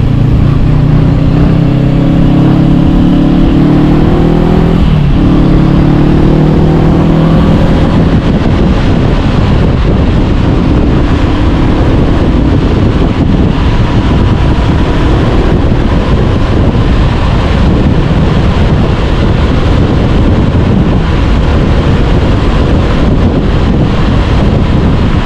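Honda CB500X parallel-twin engine through an Arrow Pro-Race exhaust, rising in pitch under acceleration, with a quick upshift about five seconds in, then pulling up again. From about eight seconds in, steady wind noise at speed drowns out the engine.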